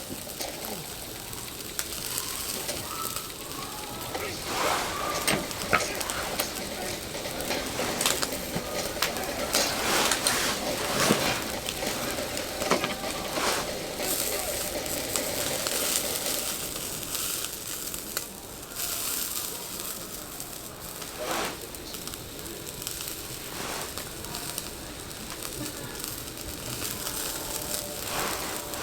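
Food sizzling in a pan, with scattered clicks and scrapes of utensils.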